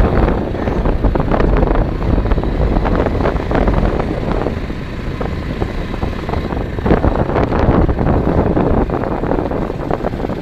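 Wind buffeting the microphone: a loud, continuous low rumble with irregular crackling gusts.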